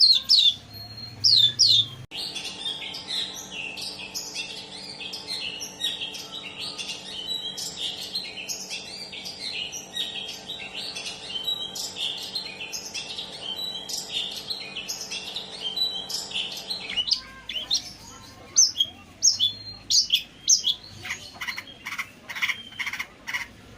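Long-tailed shrike (pentet) vocalising: loud separate calls for about two seconds, then a long run of fast, continuous chattering song over a steady low hum, then loud repeated calls again from about seventeen seconds in.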